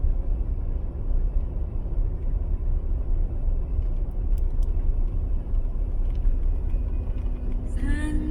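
A steady low rumbling noise without any clear pitch. Plucked-string music starts near the end.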